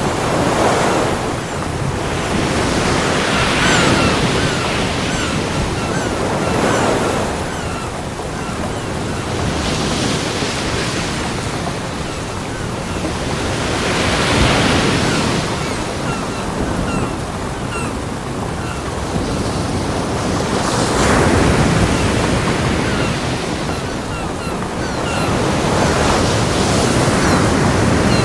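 Ocean waves breaking on a beach, the surf swelling and falling back every few seconds.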